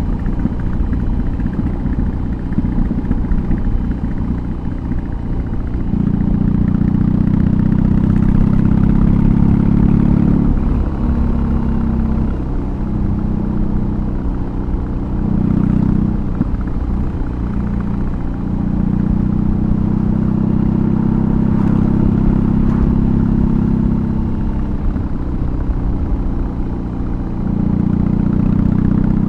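BMW R18's 1802 cc boxer twin running through a custom exhaust while riding. It pulls in loud, steady stretches about six seconds in, through the middle, and again near the end, easing off into quieter, uneven stretches between them.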